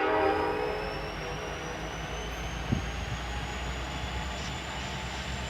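Steady low rumble of a diesel freight locomotive. The tail of its horn blast fades away in the first half second, and there is one short click about two and a half seconds in.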